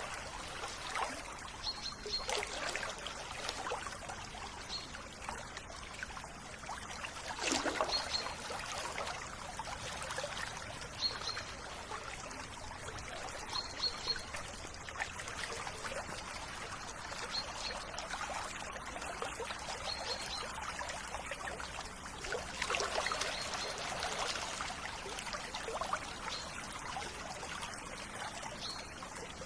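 River water trickling and splashing over a steady flow, with a bird repeating a short high call every second or two.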